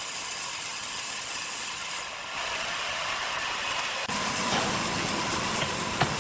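Sawmill machinery running with a steady mechanical hiss and rattle. The sound dips briefly about two seconds in, grows fuller and lower about four seconds in, and there is a sharp knock near the end.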